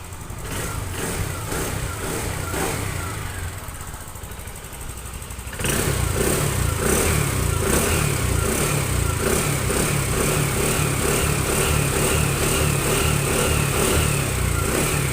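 TVS Jupiter 125 BS6 scooter's single-cylinder engine running, with a few short throttle blips at first. About five and a half seconds in the throttle is opened and it holds at higher revs. It runs without the bell-like noise, now that the worn clutch bush has been replaced.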